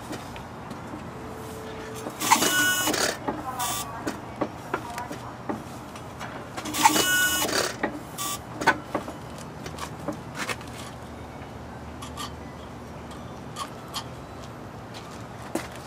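Alamo Empire hit-and-miss stationary engine being turned over in attempts to start it: two short whirring bursts of about a second each, with scattered mechanical clicks and knocks between them.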